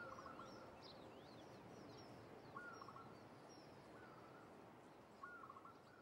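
Faint outdoor ambience fading out, with birds chirping in short high falling notes and a lower short call that comes four times.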